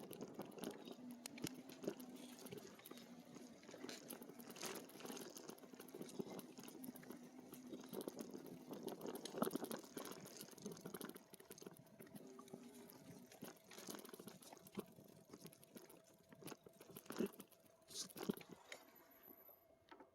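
E-bike tyres crunching and crackling over a trail, with scattered sharp clicks and rattles; the sound thins out near the end.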